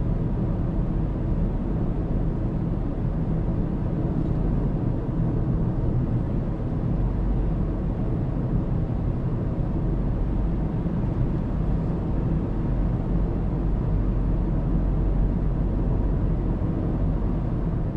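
Steady road and engine noise of a car driving, recorded by a dashcam.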